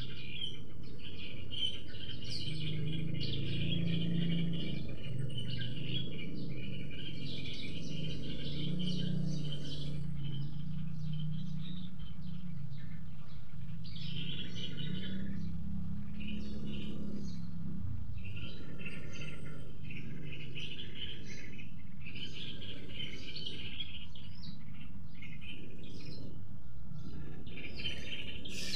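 Wild songbirds, bulbuls and prinias, chirping and singing several at once in short repeated phrases. A low steady rumble runs underneath and fades about two-thirds of the way through.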